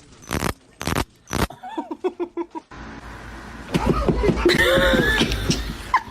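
A person laughing: a few sharp breathy bursts, then a quick run of short pitched laughs, then louder, longer peals near the end.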